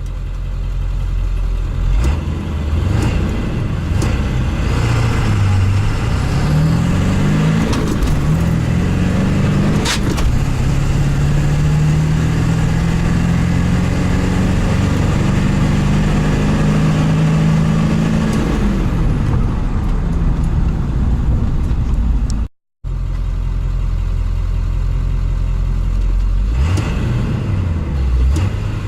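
Ford 7.3 L Powerstroke turbo-diesel V8 of a 1999 F-350 accelerating hard through its manual gears. The engine note climbs and drops back several times at the shifts, then makes one long climb before falling away as it eases off.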